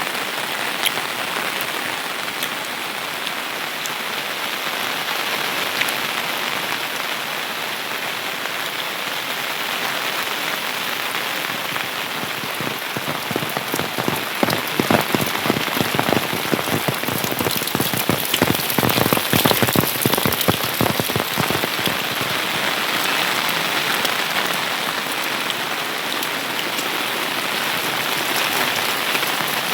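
Steady rain falling, with many separate drops heard hitting a surface; the drops come heavier and louder for several seconds around the middle.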